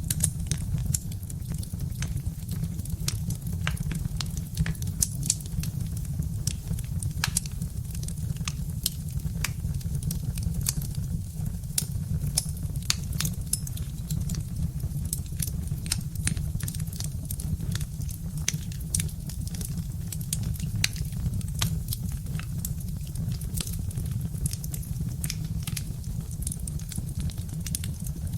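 Birch-log fire crackling, with frequent small sharp pops and snaps scattered irregularly over a steady low rumble.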